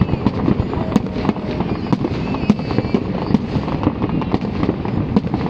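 Fireworks display: a dense, unbroken barrage of bangs and crackles, many bursts a second.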